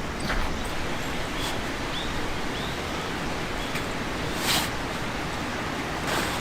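Steady outdoor background noise with a few faint short chirps and one sharp crackle about four and a half seconds in.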